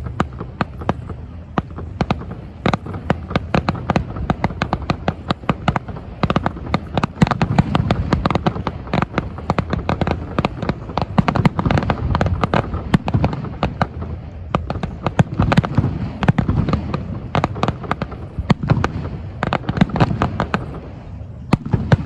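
Fireworks display going off: a dense run of rapid bangs and crackles, many per second, over a low booming rumble.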